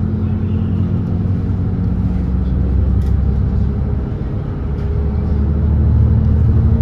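Volvo B8RLE double-decker bus's diesel engine running steadily at expressway speed, a low drone that grows a little louder about six seconds in.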